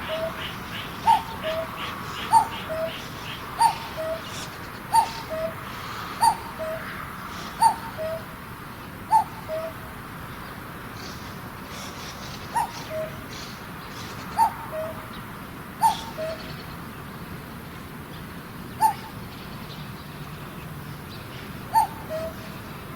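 Common cuckoo calling its two-note "cuck-oo", the second note lower than the first, repeated about every second and a half, with a short pause midway.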